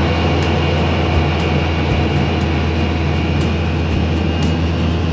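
Polaris Ranger side-by-side running steadily while driving along a forest logging road, a loud low engine hum under a wide rushing noise with scattered small clicks and rattles.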